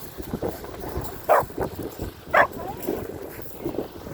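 A dog barking: two loud, short barks about a second apart, with a few quieter sounds around them.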